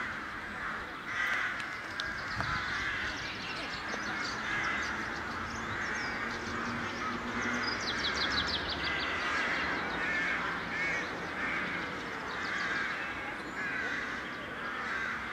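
Birds calling over and over, many calls overlapping, with a brief rapid, higher trill about eight seconds in.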